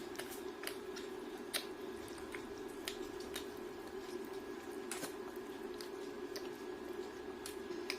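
Close-up chewing and wet mouth clicks of someone eating fried chicken and rice, in irregular short snaps, over a steady low hum.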